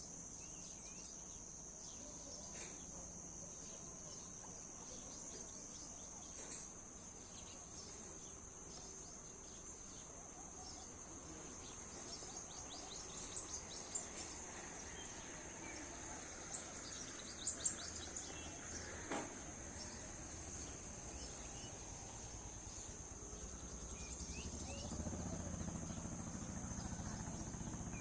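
Steady, high-pitched insect drone of crickets, with scattered short bird chirps and a few sharper ticks around the middle; a low rumble builds near the end.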